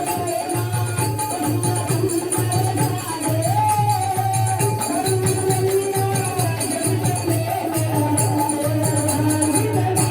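Hindu devotional bhajan sung in kirtan style, the melody carried by voices over a steady hand-drum beat and jingling tambourine.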